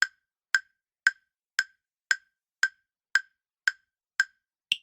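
Quiz countdown-timer sound effect: sharp, evenly spaced ticks about twice a second, ten in all, the last one higher in pitch.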